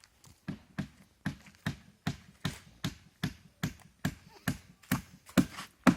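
Steady hammer or mallet blows on the wooden planking of a handmade boat, about two and a half strikes a second, growing louder toward the end.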